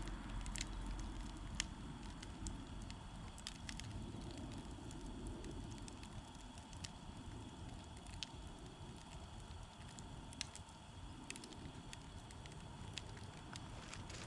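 Wood campfire burning, with scattered sharp crackles and pops over a low steady rumble of flame.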